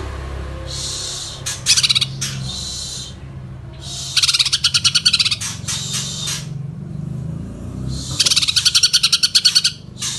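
Green leafbird (cucak hijau) singing vigorously in loud phrases of fast repeated notes, about ten a second. There are three main phrases of one to two seconds each, over a steady low hum.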